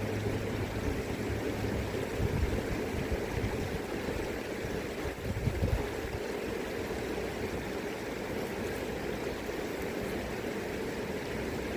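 River current rushing steadily. Low gusts of wind rumble on the microphone about two and five seconds in.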